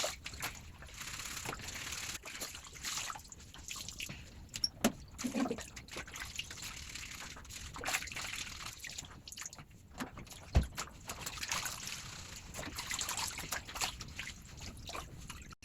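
Wet clothes being scrubbed by hand in a basin of water: irregular swishing, trickling and dripping, with one sharp knock about ten and a half seconds in.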